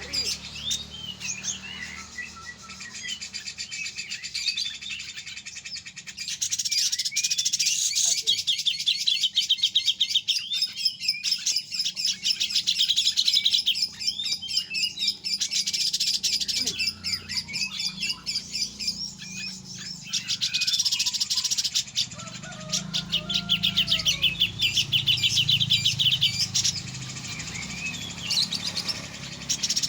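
Grey-cheeked bulbul (cucak jenggot) singing in fast, rattling trills ("besetan"), with two long runs of rapid repeated notes broken by shorter whistled phrases. A low steady hum runs underneath.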